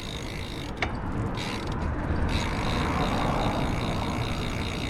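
Bicycle rolling along a paved road: a steady rumble of tyre and riding noise, with one sharp click about a second in.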